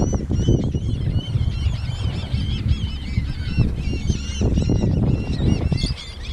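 A large flock of gulls calling continuously, many short arched cries overlapping at once, over a low steady rumble.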